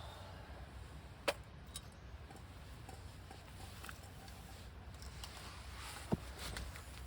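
Wood campfire burning with faint crackling and two sharp pops, one about a second in and one near the end.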